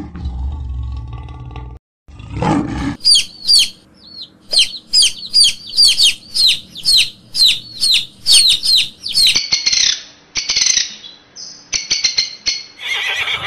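A bird chirping over and over, about three sharp, curving high chirps a second, then harsher, raspier calls near the end. Before it, a low rumbling sound cuts off abruptly about two seconds in.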